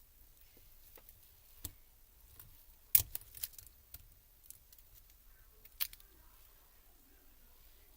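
Scattered sharp clicks and snaps of small plastic parts as a laptop keyboard is taken apart, the loudest cluster about three seconds in and a last one near the end.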